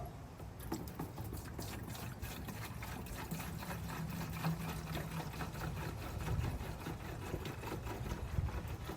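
Dex-Cool coolant being poured into a truck's coolant overflow reservoir, a steady liquid filling sound. The 5.7 L V8 engine runs underneath with a low hum.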